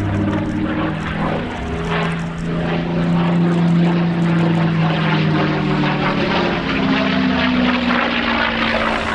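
Propeller warbird with an Allison V-1710 V-12 piston engine flying past, its engine a steady loud drone whose pitch sinks slightly over the last couple of seconds as it goes by.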